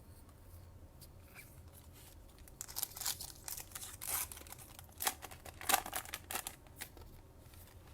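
A trading card pack's foil wrapper being torn open and crinkled, a run of crackling that starts about two and a half seconds in and lasts roughly four seconds.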